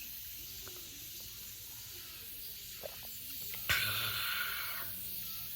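Steady high-pitched insect chorus. A little past halfway, a short louder noise lasts about a second.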